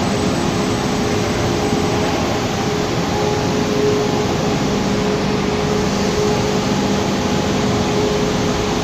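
Machinery running steadily: an even mechanical noise with a faint low hum.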